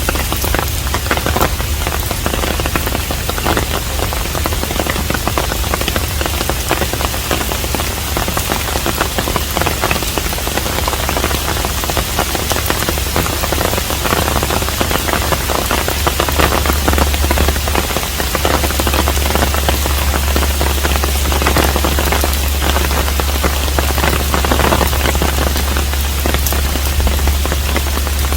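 Steady rain falling on a traditional Korean hanok: a dense, even patter of many drops, with a constant low hum underneath.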